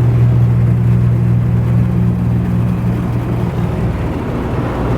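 Steady low droning hum of an automatic car wash, heard from inside the car's cabin.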